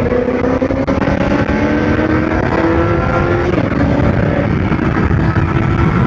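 High-revving engine accelerating hard at speed, its pitch climbing, dropping suddenly at a gear change about three and a half seconds in, then climbing again, over heavy wind rush.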